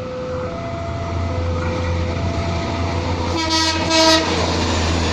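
Yellow railway crane dresin running, its engine a steady low hum growing slightly louder, and sounding two short horn toots about three and a half seconds in. An alternating two-note tone rings over the first three seconds.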